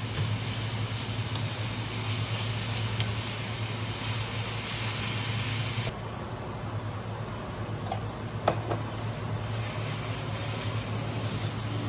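Ramen noodles with prawns stir-frying in a pan on an induction cooktop: a steady sizzle over the cooktop's low steady hum. The sizzle drops sharply about six seconds in, and a single sharp tap comes a couple of seconds later.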